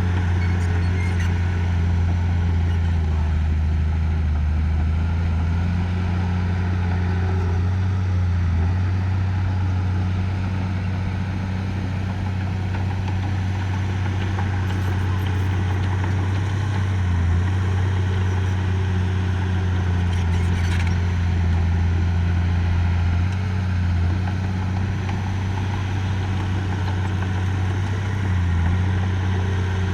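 Diesel engine of earthmoving machinery running steadily, its pitch dipping and recovering slightly every few seconds as the load changes, with a few faint clicks.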